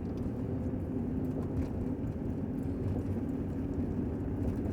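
Steady low rumble of a vehicle running, with a faint even hum.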